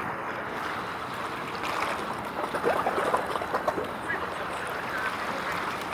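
Steady outdoor background noise with faint, indistinct voices talking, the voices a little louder around the middle.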